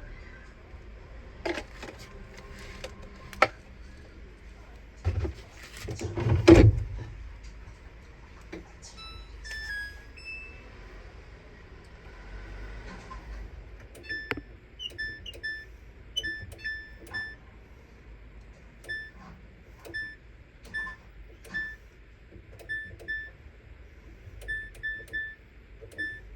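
Samsung Bespoke Grande washing machine control panel: a short electronic tune, then a string of short single beeps, one for each button press as the wash course is set. A few knocks and one loud thump come in the first seconds, about six seconds in.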